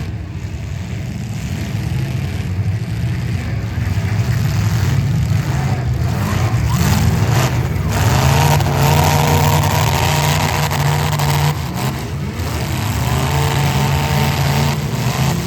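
Engines of several demolition derby cars running and revving hard, the revs climbing and falling, with a few sharp bangs of cars colliding.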